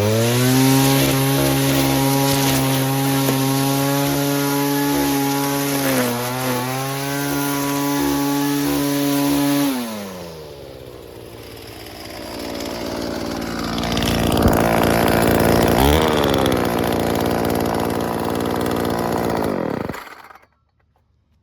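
Stihl FS36 string trimmer's two-stroke engine revving up and held at high speed, dropping back to idle about ten seconds in, then speeding up again. It dies abruptly near the end when choked out, since its stop switch doesn't shut it off.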